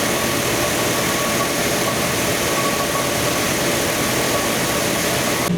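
Jeep 4.6 stroker inline-six running steadily at idle on an engine dyno, a loud even hiss over faint engine tones. Near the end the sound changes suddenly: the hiss falls away and a strong steady low hum takes over.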